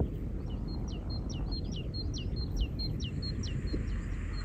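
A small songbird singing a rapid run of high two-part notes, a short steady note then a falling slur, about three a second, fading near the end. A steady low rumble lies beneath.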